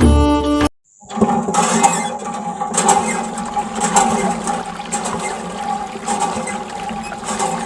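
Water rushing and splashing from a miniature water pump, with the steady hum of its small motor underneath. It starts about a second in, after a short stretch of music.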